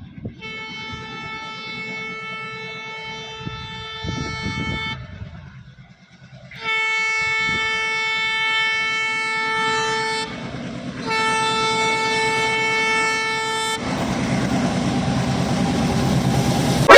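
Train horn sounding three long steady blasts of one pitch, each several seconds long with short gaps between, then the rumble of the moving train growing louder near the end.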